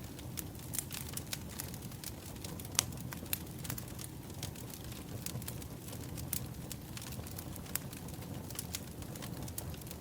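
Wood fire burning: irregular sharp crackles and pops from the burning firewood over a steady low rumble of the flames, with one louder pop about three seconds in.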